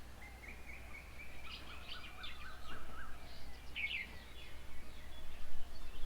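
Birds singing and calling: a long steady whistled note for about two seconds, overlapping quick chirps and twittering, with the loudest burst of chirps about four seconds in. A faint low hum runs underneath.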